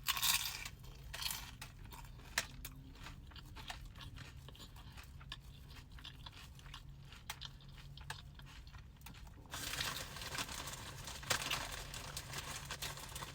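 Close-miked chewing and crunching of food with many small mouth clicks over a steady low hum. About nine and a half seconds in, a denser, louder rustling hiss starts.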